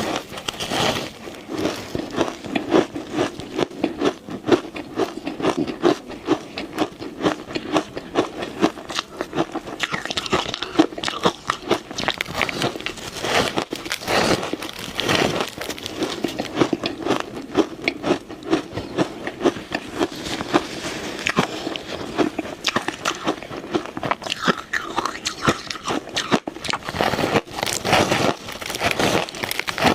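Ice being bitten and crunched between the teeth, a steady run of irregular sharp cracks.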